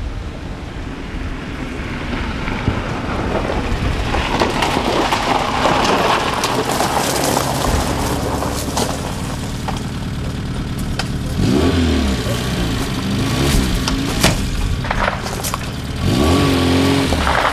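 Lada estate-car ambulance's engine as it drives up, growing louder over the first several seconds, then revving up and down in short rises as it manoeuvres to a stop. A sharp crack about fourteen seconds in.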